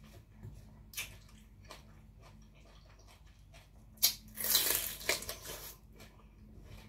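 Biting into a raw bitter melon: a sharp snap about four seconds in, then loud crunching chewing for about a second and a half. Before it, faint wet chewing with a few small clicks.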